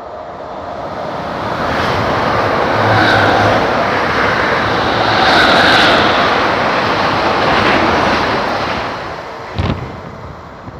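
A train running through the station past the platform, its noise swelling, staying loud for several seconds, then fading. A sharp knock sounds near the end.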